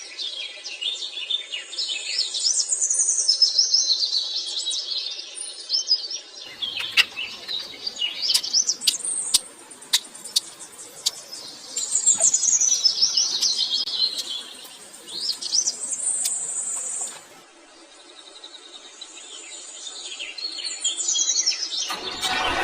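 Small birds chirping and twittering: many quick high calls, several gliding down in pitch, with a few sharp clicks or taps about a third of the way through.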